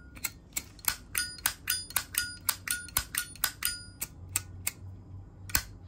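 A gold-plated Zippo lighter being handled: a quick run of sharp metallic clicks and clinks, about three or four a second, each ringing briefly at the same bright pitch. They thin out after about four seconds.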